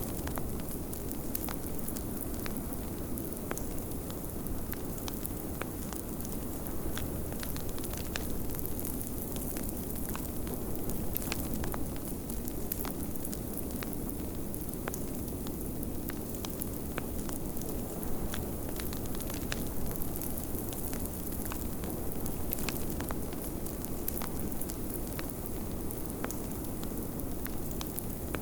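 Wood fire crackling, with frequent small irregular pops, over a steady low rush of blizzard wind.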